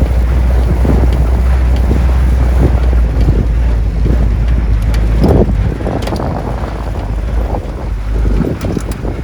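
Wind buffeting the phone's microphone over the low rumble of a Jeep driving on a back road, with occasional knocks and rattles. The rumble eases off a little about halfway through.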